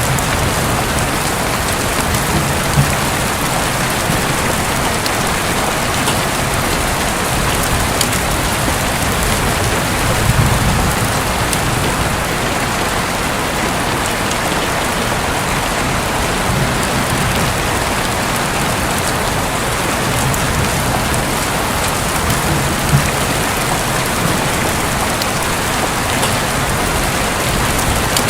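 Heavy rain falling steadily on a roof, with a few sharper drop hits and a brief low rumble of thunder about ten seconds in.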